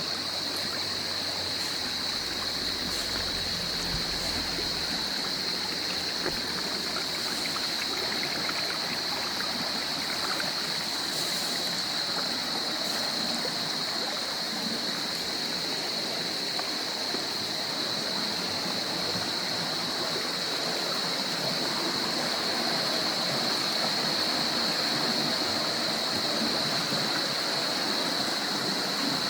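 Shallow stream flowing and gurgling over rocks, a steady rush of water, with a steady high-pitched drone above it.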